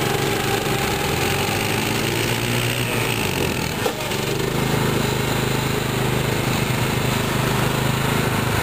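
Small engines of a John Deere GT225 garden tractor and a Kawasaki Bayou 250 quad running hard under load as they pull against each other. About four seconds in the sound dips briefly, then settles into a stronger, steadier hum.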